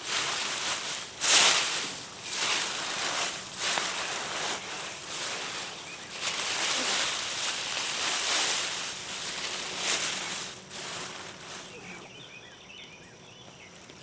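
Digging through loose soil and dead potato vines to unearth potatoes: a run of repeated scraping and rustling strokes, the loudest about a second in, dying away near the end.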